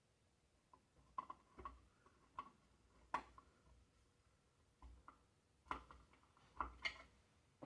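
Faint, scattered light clicks and taps of hands handling the blender's parts and wiring, about a dozen small knocks at uneven intervals.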